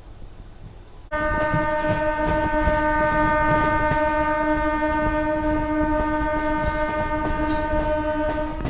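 Train horn sounding suddenly about a second in and holding one steady note for about seven seconds, over the rumble of the moving local train.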